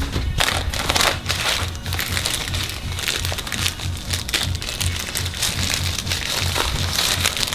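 Food packaging crinkling and crackling as it is handled and opened, over background music with a steady bass beat.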